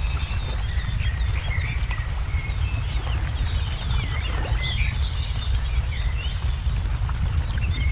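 Layered nature ambience: many small birds chirping and twittering, scattered sharp crackles and pops of a wood fire, and a steady low rumble underneath.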